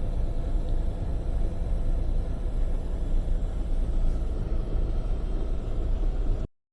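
Steady low rumble of a Freightliner semi truck driving on the road, engine and road noise heard from inside the cab. The sound cuts out suddenly about six and a half seconds in.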